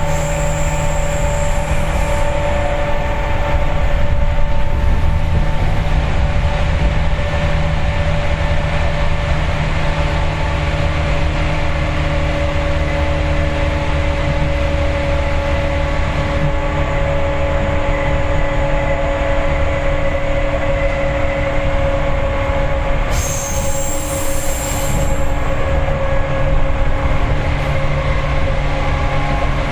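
Seibu 4000 series resistor-controlled electric train running between stations, heard from inside the passenger car: a steady rumble of wheels on rail with a steady humming whine. Near the end a brief high-pitched hiss-like squeal rises over it for about two seconds.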